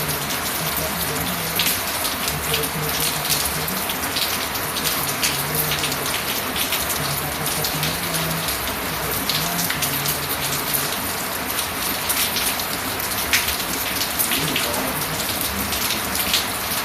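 Steady rain falling, an even hiss full of small drop ticks, with a low murmur coming and going beneath it.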